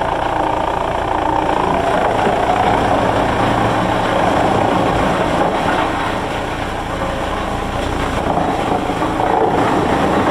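Heavy machinery running steadily: a loud, continuous mechanical noise with a low rumble underneath.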